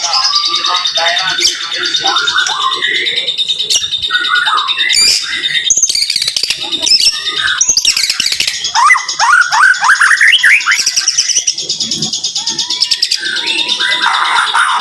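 White-rumped shama (murai batu) singing a dense, varied song of trills, whistles and chattering phrases in quick 'tembakan' bursts, with a run of fast rising notes a little past halfway.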